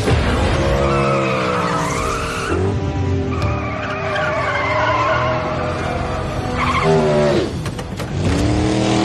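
Car engine revving hard, its pitch rising and falling in sweeps, with tyres squealing as the wheels spin in a burnout.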